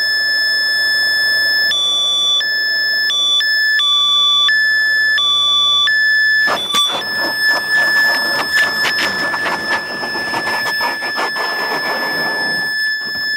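Aircraft cockpit warning alarm: a steady high-pitched tone broken four times by a lower alternating tone. From about seven seconds in, a dense rattling and knocking joins under the alarm, which keeps sounding as the plane lands roughly.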